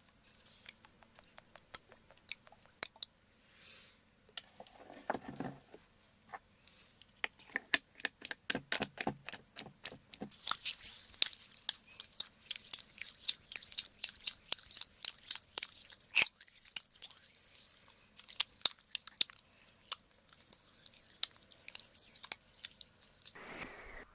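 Close-miked ear-cleaning sounds: an ear pick scraping inside the ear canal, making rapid sharp clicks and crackles that grow densest in the middle, with a few soft rubbing swishes. A louder swish comes near the end.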